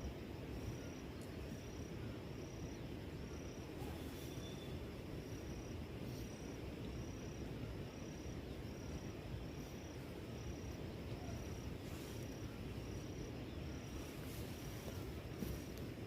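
An insect chirping in a steady rhythm, a short high chirp about every 0.7 seconds, over a steady low rushing background, with a few faint clicks or taps.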